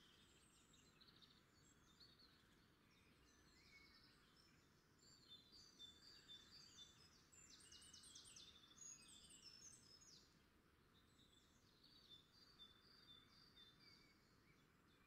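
Near silence with faint songbirds chirping and trilling in the background, busiest in the middle of the stretch, over a faint steady hiss.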